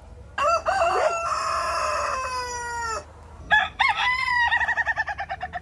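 A rooster crowing: one long crow of about two and a half seconds, then, after a short pause, a run of quick clucking notes.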